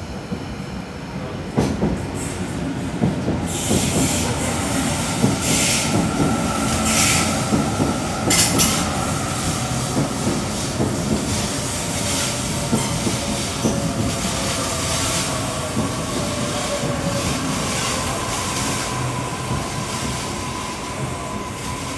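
Double-deck electric suburban passenger train pulling into the platform and slowing, its wheels clattering over the rails with a few bursts of high hiss early on. A steady whine falls slowly in pitch as the train brakes.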